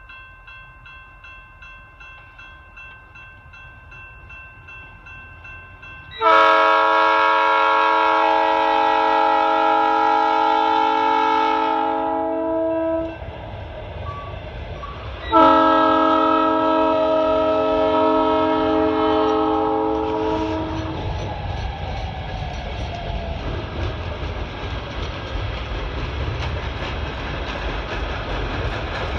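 Multi-chime air horn on a self-propelled Herzog rail work train sounding two long blasts, the first about six seconds long and the second about five, each a chord of several notes. After the horn the rumble and clatter of the train rolling along the rails grows louder.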